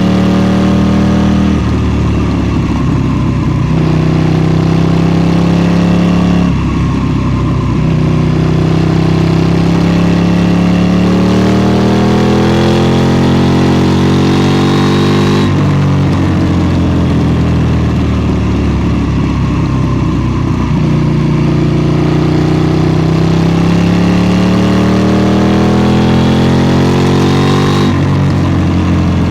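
KTM 790 Duke's 799 cc parallel-twin engine under way. Its pitch climbs steadily as the bike accelerates, then drops back sharply several times, around two, seven, fifteen, twenty-one and twenty-eight seconds in, as the throttle closes or a gear changes.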